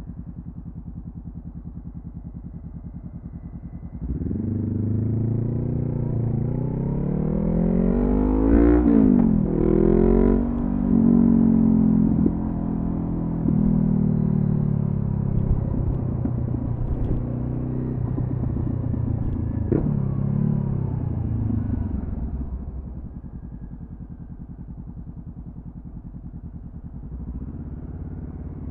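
2014 Honda CB500F's parallel-twin engine through a Delkevic carbon-fibre slip-on exhaust: idling, then pulling away about four seconds in with climbing revs cut by two quick upshifts. It then holds a steady cruise, eases back to idle, and pulls off again near the end.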